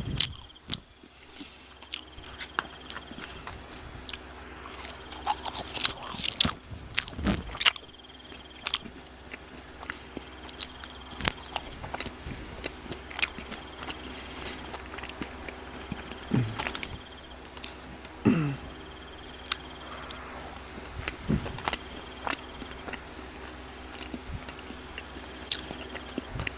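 Close-miked chewing and biting of fried fast food: irregular crunches and wet mouth clicks spread through the whole stretch.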